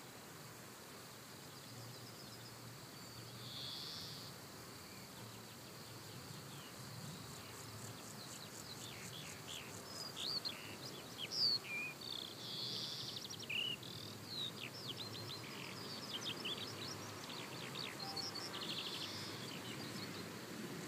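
Birds chirping and singing in quick sweeping notes, sparse at first and busiest through the middle and near the end, over a steady faint high hiss of outdoor ambience.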